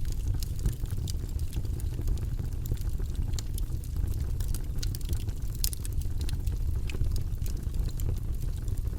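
Campfire crackling, with irregular sharp pops and snaps scattered throughout over a steady low rumble.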